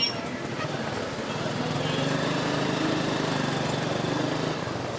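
Motorcycle engine running steadily while riding along the road, a continuous low drone.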